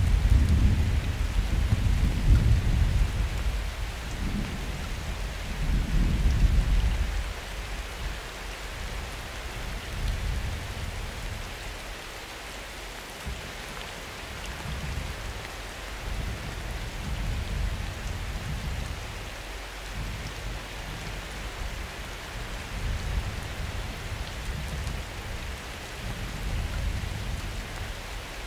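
Summer thunderstorm: steady rain hiss with rolling thunder, loudest in the first seven seconds, then dying back to fainter low rumbles.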